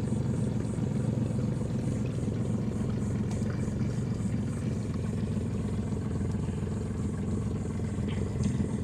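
Boat engine running steadily at low speed, an even low hum that holds without revving up or down.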